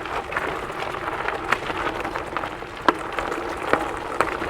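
Gravel bike tyres rolling over a gravel path: a steady crackling hiss with scattered sharp clicks of small stones.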